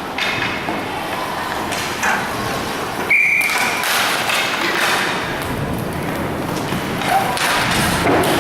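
Inline hockey play: irregular knocks and thuds of sticks, puck and players against the rink boards over a steady background of rink noise, with a brief high tone about three seconds in.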